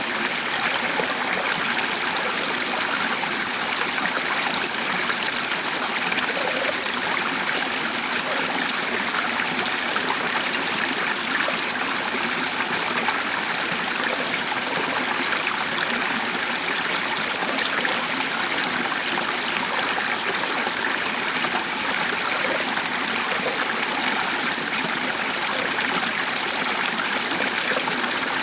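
A stream flowing steadily, water trickling and babbling over rocks.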